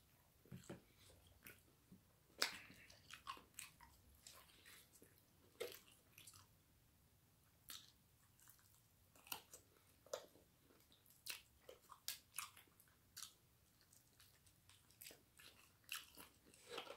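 Faint chewing and biting of roasted chicken, with scattered short, irregular crunches and clicks.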